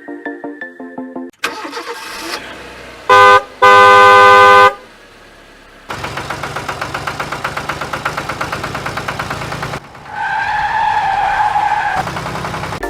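Background music breaks off and a vehicle horn sounds twice, very loud, a short blast and then a longer one about three seconds in. An engine then runs with a fast, even pulse, followed by a wavering two-pitch tone near the end.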